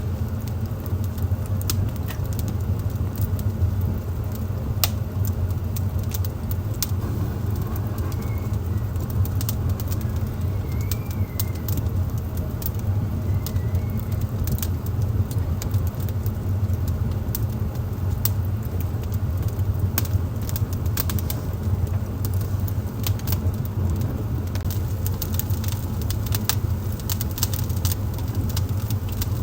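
Wood fire burning in a fireplace: a steady low rumble with frequent sharp crackles and pops from the burning logs.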